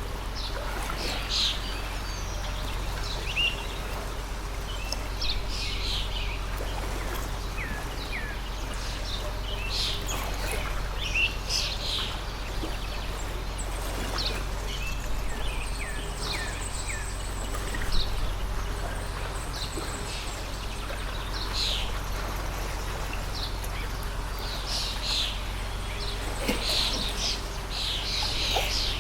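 Small birds chirping and calling repeatedly over the steady rushing of a water stream, with a louder cluster of calls near the end.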